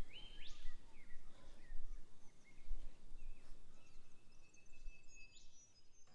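Faint outdoor background noise with scattered bird calls: short rising chirps, and a thin held whistle about four and a half seconds in.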